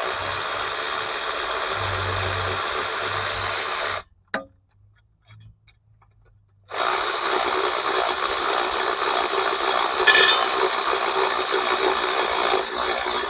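Handheld power tool running in two long bursts, about four seconds and then about seven, each starting and stopping abruptly, with a short click in the pause between them.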